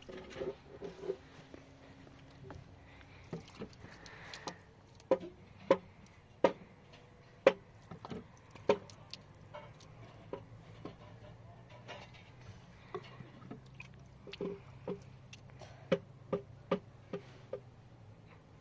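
Scattered sharp knocks and clacks at uneven intervals, like hard objects being set down and handled, over a faint low hum.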